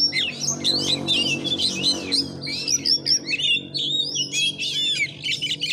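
Oriental magpie-robin singing hard: a rapid, unbroken stream of varied whistles, slurs and chatter.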